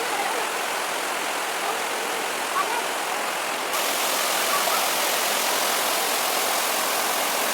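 Steady rushing of flowing water, with the hiss stepping up suddenly about three and a half seconds in.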